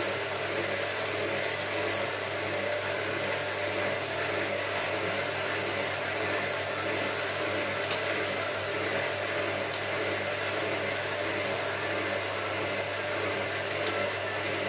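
Hotpoint 9534A washing machine spinning at a steady speed during the rinses, with a few faint ticks. The load is fairly well balanced, so there is little of the knocking of an unbalanced spin.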